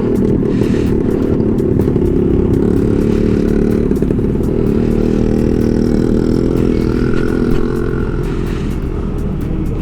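Yamaha Aerox scooter's single-cylinder engine running at a steady cruise under way, mixed with road and wind noise, easing off slightly about eight seconds in.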